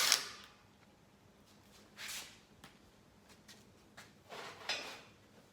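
Workshop handling noises: a loud noise dies away in the first half second, then a few short scrapes and clicks about two seconds in and again about four and a half seconds in.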